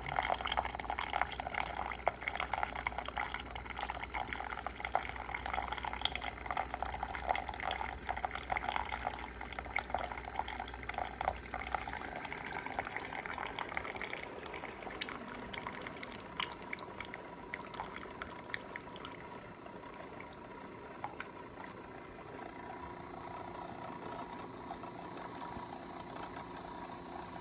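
Sboly single-serve coffee maker brewing: hot coffee spluttering and streaming into the cup with a steady low hum from the machine. The hum stops about halfway through and the flow thins to a lighter trickle and drip as the brew tails off.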